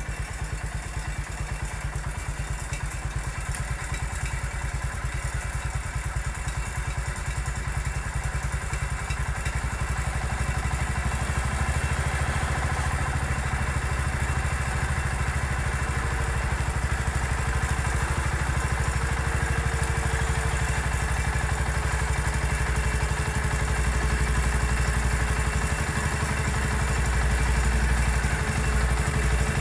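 Massey Ferguson MF 14 garden tractor engine running steadily as it works with its dozer blade, growing louder toward the end as it comes closer.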